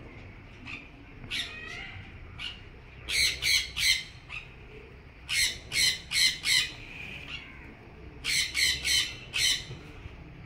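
A bird squawking in three runs of three to five quick, high-pitched calls, starting about three, five and a half and eight seconds in, over a low steady background hum.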